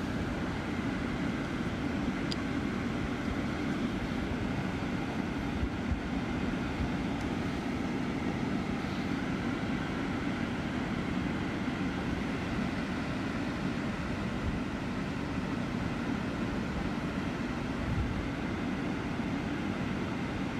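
Steady rumble of a vehicle heard from inside the cabin, with no sudden changes.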